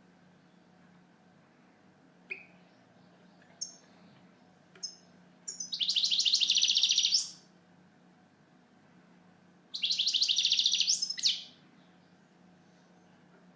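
European goldfinch singing: a few short single call notes, then two bursts of fast, high twittering song, each lasting about two seconds.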